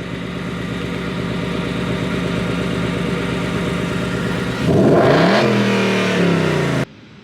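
Car engine running steadily, then revving up sharply about four and a half seconds in and staying high before cutting off suddenly near the end.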